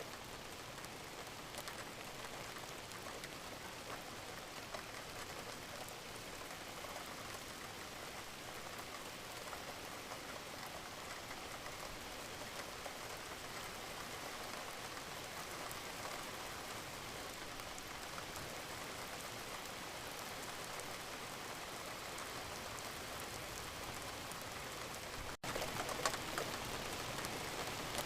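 Wood fire crackling in a fireplace: a steady soft hiss dotted with many small pops and snaps. About 25 seconds in it drops out for an instant, then comes back a little louder, with a sharper pop just after.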